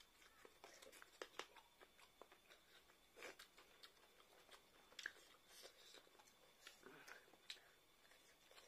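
Faint eating sounds: chewing, biting into chicken pieces and lip smacks from people eating rice and chicken curry with their hands, heard as scattered soft clicks.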